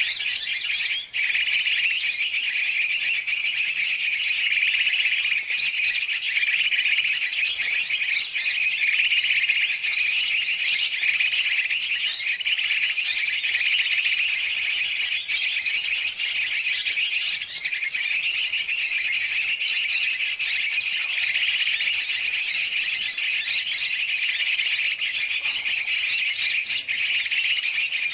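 Dense, unbroken chorus of many birds chirping and chattering, a looped bird-lure recording built on yellow-vented bulbul (trucukan) calls mixed with a noisy crowd of large and small birds. It is used to draw birds in.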